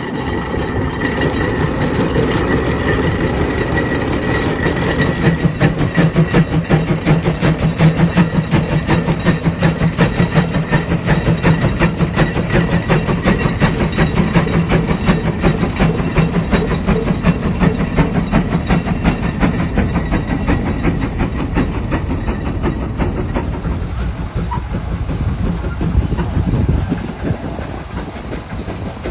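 Large steam traction engine running, a steady, rapid mechanical beat with a low hum underneath, easing off near the end.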